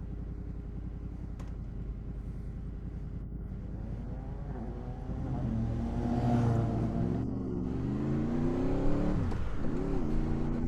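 Honda VFR800's V4 engine running at low revs, then revving up about five seconds in, louder as it pulls; near the end the revs drop briefly and climb again.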